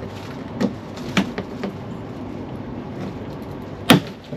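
A few light knocks and clicks, then one loud sharp knock about four seconds in, from handling the MK2 Fiesta's boot lid (tailgate), whose gas struts have failed.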